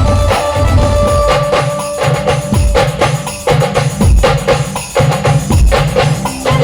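Band music playing an instrumental passage: drums and percussion keep a steady, regular beat under a held melody line.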